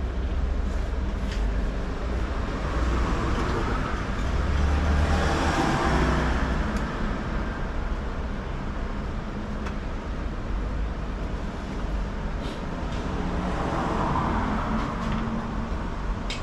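Road traffic passing: a steady low rumble, with the noise of passing vehicles swelling and fading about five seconds in and again near the end, and a few light clicks.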